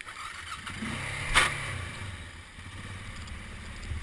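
Small off-road engine picking up under a blip of throttle, then running on at a low pace, with one sharp knock about a second and a half in.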